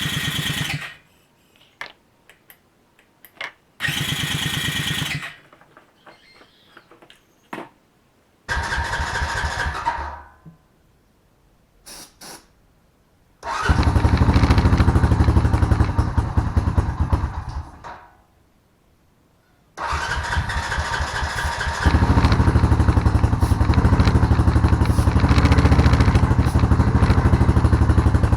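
Honda Rancher ATV's single-cylinder engine being cranked by the starter in three short bursts without firing, then catching about halfway through, running a few seconds and dying. It is started again a couple of seconds later and keeps running, louder from a little after that. The hard starting and stalling come from the freshly refitted carburetor, whose pilot jet the owner then finds partly clogged.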